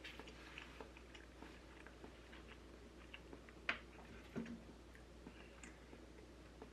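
Faint close-up chewing and soft mouth clicks of a person eating, with a sharper click a little past halfway and a short low knock just after.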